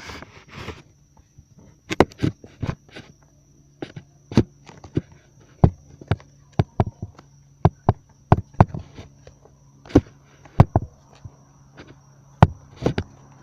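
Irregular sharp taps and knocks, one or two a second, from fingers handling the recording phone while pictures are snapped. A faint steady high insect drone runs underneath.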